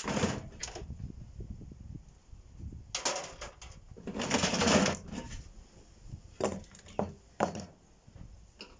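Clattering and scraping of a microwave's metal casing and parts being pulled apart and handled with hand tools, in several separate spells, the longest about a second long in the middle.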